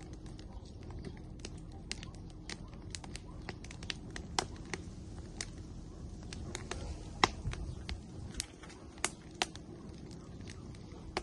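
Firewood burning in an outdoor grill, crackling with irregular sharp pops over a low steady rumble of the flames; the loudest pop comes about seven seconds in.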